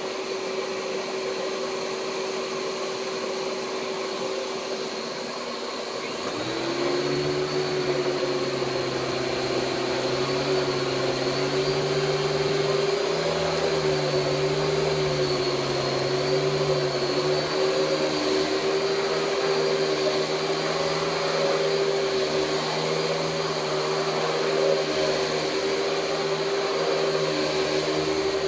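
Hoover Spectrum 960 vacuum cleaner running with a steady motor hum; about six seconds in it gets louder as a second, lower hum joins, and then runs on steadily.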